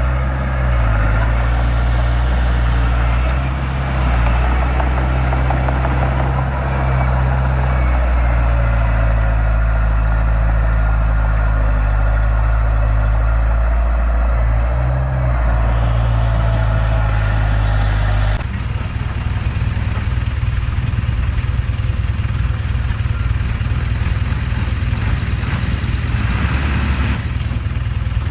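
Heavy diesel engine of earthmoving machinery running steadily. About two-thirds of the way through the sound changes abruptly to a rougher, more chattering engine.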